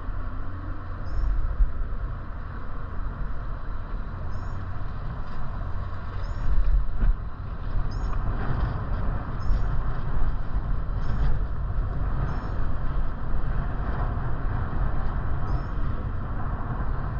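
Steady wind noise on the microphone with road noise from riding a bike, heaviest in the low end, with faint high chirps recurring every second or so.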